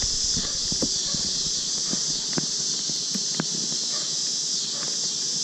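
A steady, high-pitched chorus of insects, with a dozen or so light clicks and knocks from hive frames being handled.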